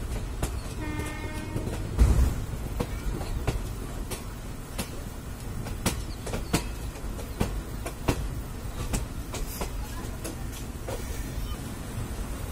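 Passenger train running: a steady low rumble with irregular clicks and knocks of the wheels over the rails. A short horn note sounds about a second in, followed by a heavy thump.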